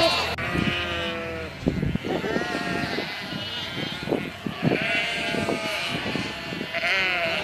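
A flock of sheep bleating, several animals calling in turn and over one another, each bleat with a wavering, trembling pitch.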